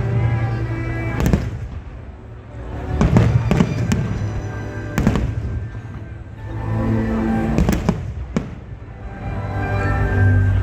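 Aerial fireworks bursting: a run of sharp bangs a second or two apart with rumbling echoes between them, over music with long held notes.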